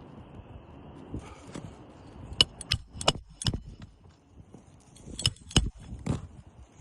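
Hammer blows driving roofing nails into a new asphalt shingle: four sharp, ringing strikes in quick succession, then three more a couple of seconds later.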